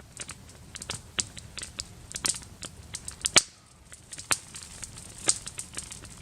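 Wood campfire crackling, with sharp irregular pops and snaps, the loudest about three and a half seconds in; fresh wood has just been put on the fire.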